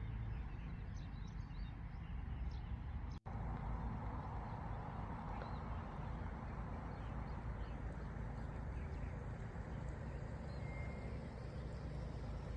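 Steady outdoor rushing noise with faint, short bird chirps, broken by a brief dropout about three seconds in.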